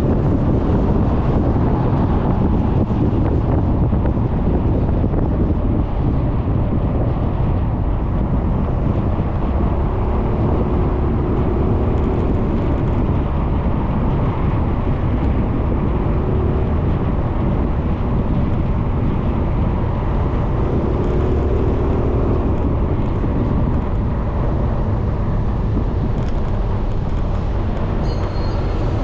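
Wind rushing over the microphone and road noise from a Suzuki Burgman 400 scooter riding, with its engine running underneath. A rising whine comes near the end.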